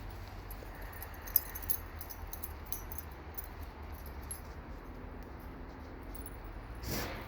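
Dogs' collar tags jingling in quick, irregular metal clinks as the dogs run and play, with a sharper click about a second and a half in, over a steady low hum.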